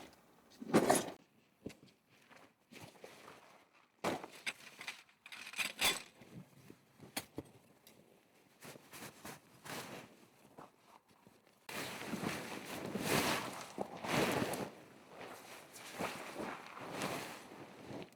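Irregular footsteps and rustling handling noises of someone moving about, with a sharp knock about a second in and a longer stretch of rustling in the second half.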